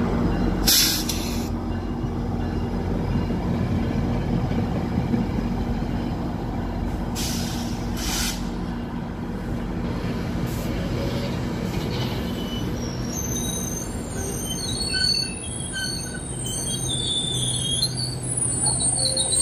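A train running past with a steady low rumble. Two short hisses sound about a second in and again around eight seconds in, and high, wavering squealing tones come in over the last six seconds.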